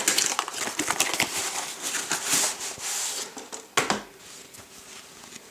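Packaging being torn open and handled: a dense crinkling, crackling rustle for about three seconds, a sharp snap a little later, then only faint rustling.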